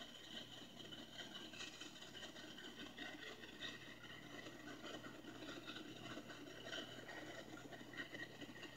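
Faint sound of CSX diesel freight locomotives running past on the track, played back through a small speaker.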